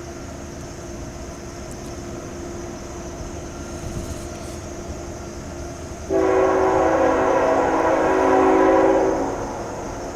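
Diesel locomotive air horn sounding one long blast, a chord of several notes, that starts about six seconds in, lasts about three and a half seconds and then fades. Under it is the steady rumble of the approaching train.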